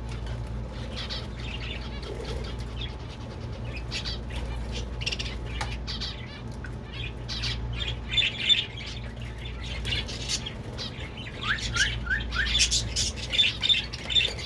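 A room full of caged birds chirping and squawking. There are many short, high calls throughout, with a quick run of rising chirps near the end.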